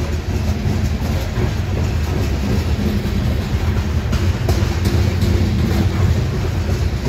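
Freight train of loaded covered hopper cars rolling past close by: a steady heavy rumble of steel wheels on the rails, with a few sharp clicks over the rail joints about halfway through.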